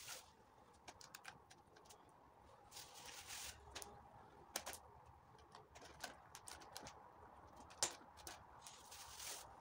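Near silence, broken by faint scattered clicks and taps, with two brief bursts of hiss about three seconds in and near the end.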